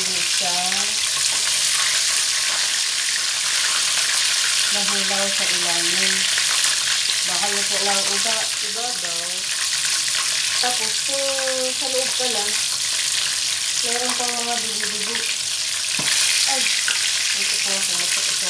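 Breaded chicken pieces frying in hot oil in a pan: a steady, loud sizzle.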